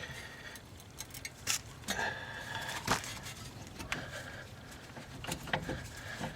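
Irregular metallic clicks and clinks of hand tools and suspension hardware being handled while the strut is lined up and bolted to the steering knuckle, a few with a brief faint ring.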